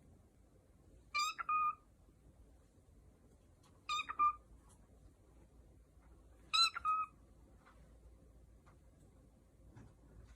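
A talking pet bird saying a short mimicked word, peekaboo, three times, each a quick two-to-three-part high-pitched call, about every two and a half seconds.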